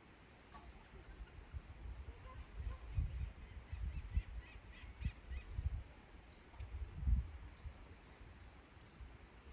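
Rural evening ambience: a short run of faint bird chirps near the middle, over irregular low rumbling gusts of wind on the microphone and a steady high hiss.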